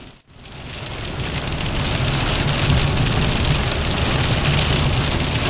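Sleet and rain hitting a moving car, over the steady low rumble of the car on the road. The sound drops out almost completely just after the start and fades back up over about a second.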